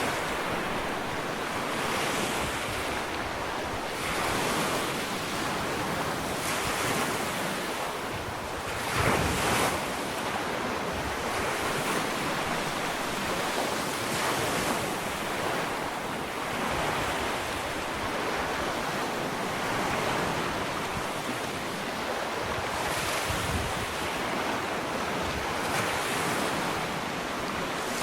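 Gentle ocean waves breaking and washing up a sandy beach, a continuous surf with a louder wave about nine seconds in.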